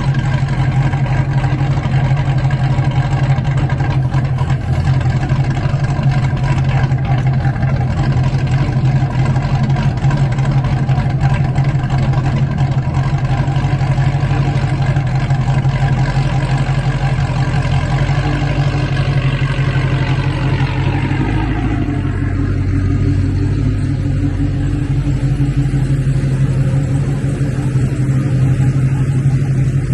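Cadillac V's engine and newly fitted exhaust with 3-inch mufflers, running with a steady, strong low drone. About twenty seconds in, the pitch glides down as the revs fall off, and the note settles lower and duller.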